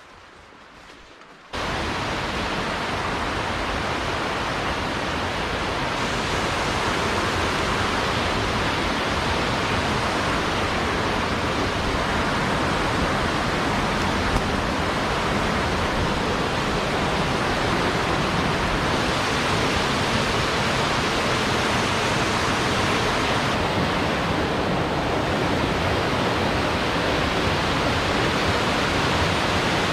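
Rushing water of a small mountain stream close by, a loud, steady noise that sets in suddenly about a second and a half in after a faint quiet.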